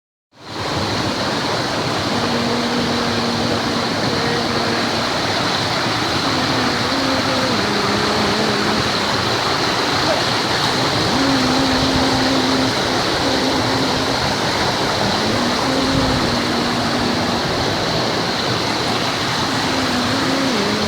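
Mountain valley stream rushing steadily over rocks, with a constant heavy flow of water.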